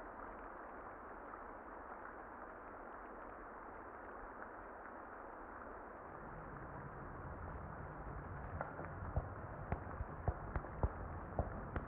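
Muffled rain: a steady hiss with its treble cut off. From about eight seconds in it carries scattered sharp crackles. A low rumble swells in about halfway through.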